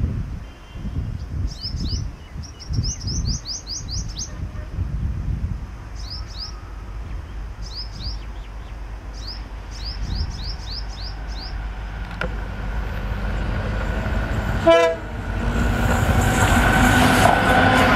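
A bird chirping in repeated quick runs of short high notes over a low rumble of wind on the microphone. From about twelve seconds in, a diesel locomotive hauling a passenger train grows louder as it approaches. It passes loudly in the last few seconds, its engine and wheels mixed with a broad rushing noise.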